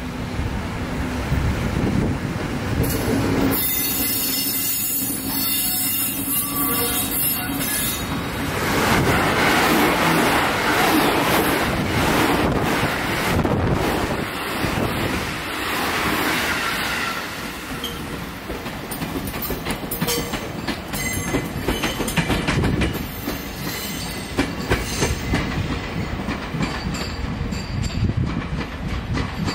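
Electric trains in a rail yard: a passing train runs close by, its noise swelling and loudest for several seconds in the middle, then easing off. After that, wheels clatter over rail joints in an uneven run of clicks as the locomotive-hauled Seibu 2000 series cars roll slowly away.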